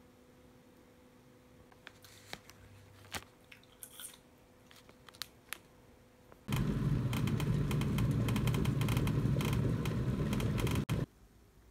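A few scattered light clicks and taps, then from about six and a half seconds in a loud spell of close-up biting and chewing on a mugwort rice-cake ice cream sandwich, stopping abruptly near the end.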